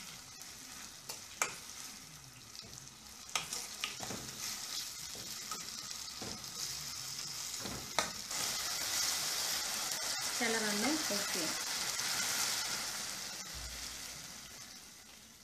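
Mango pickle sizzling and bubbling in oil in a steel pan on a low flame, stirred with a silicone spatula that clicks against the pan now and then. The sizzle grows louder about halfway through and fades near the end.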